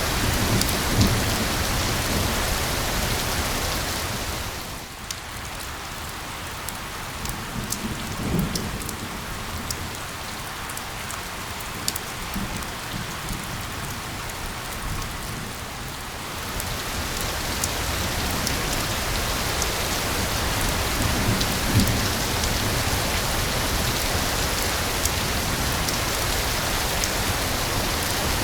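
Steady rain with occasional low rumbles of thunder. The rain eases about five seconds in, so single drops ticking through it stand out, and it builds back up again about two-thirds of the way through.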